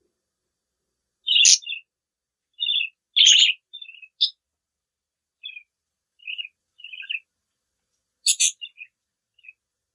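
Budgerigars chirping: about a dozen short, high chirps scattered with silent gaps between them, the loudest about a second and a half in, around three seconds, and near the end.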